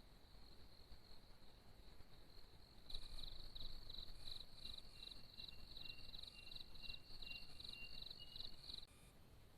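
Insects trilling high and faint. About three seconds in, a louder chirp takes over, pulsing about three times a second, with a thinner steady tone beneath it, and it cuts off suddenly near the end.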